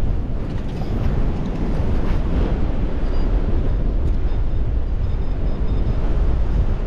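Strong gale-force wind buffeting the microphone: a loud, steady low rumble.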